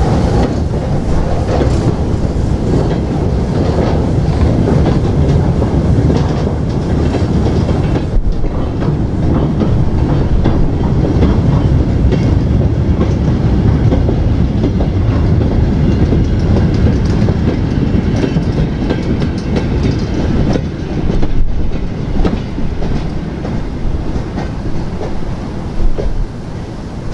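A train rolling past close by, its wheels clicking steadily over the rail joints.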